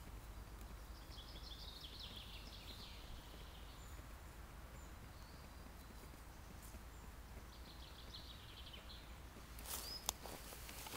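A small bird singing two short warbling phrases in woodland over a faint steady outdoor rumble. Near the end, footsteps crunch closer through dry leaf litter.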